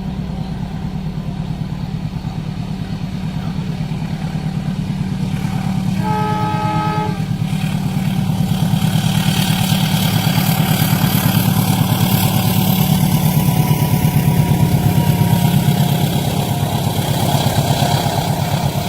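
A train approaching and passing: a steady low diesel engine throb with rumble and wheel noise that grows louder, peaking about fifteen seconds in. A short horn blast sounds about six seconds in.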